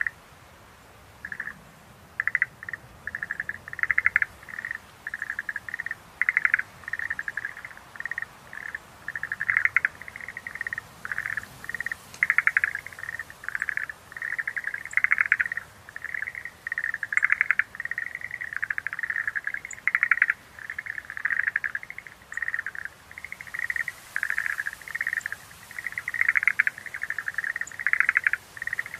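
Schlegel's green tree frogs calling: a dense run of short trilled calls, one after another with barely a pause, varying in loudness as different frogs call.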